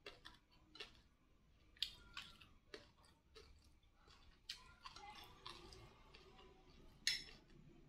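Faint chewing of fried rice, with scattered light clicks of a metal spoon and fork scraping and tapping on a ceramic plate.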